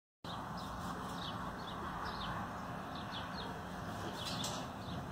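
Small birds chirping: many short, quick calls that fall in pitch, over a steady background hiss.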